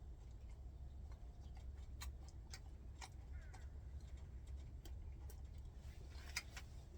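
Faint, irregular clicks and ticks, a few seconds apart, over a steady low rumble.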